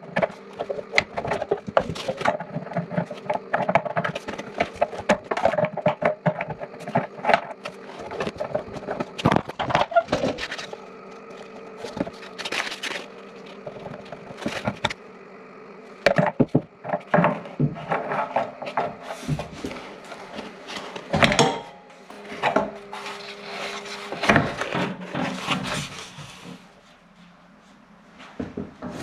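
Wrench and pipe fittings clicking, clanking and scraping irregularly as the water line connections are undone on an old electric water heater, over a faint steady hum.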